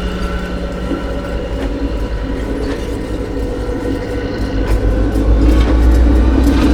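Slow-moving diesel-hauled track geometry train passing: a low rumble of the locomotive engine that grows louder about five seconds in, with repeated clicks of the wheels over the rail joints.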